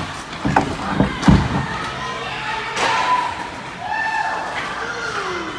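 Three heavy thuds in quick succession, between about half a second and a second and a half in, the last the loudest, in the echo of an ice rink during hockey play. Voices call out afterward, one falling in pitch near the end.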